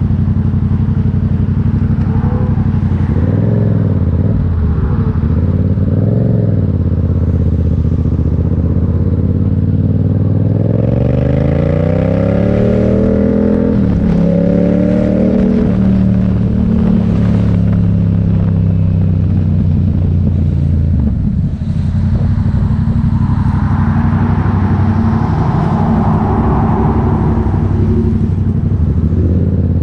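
Motorcycle engine running loud and steady while riding, its pitch rising and falling as the revs change, with a long climb in revs about a third of the way through.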